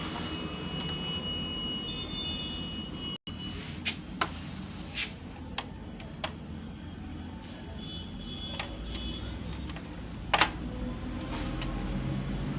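Sharp clicks and taps of projector parts being handled during reassembly, about half a dozen scattered over several seconds, the loudest about ten seconds in, over a steady background hum.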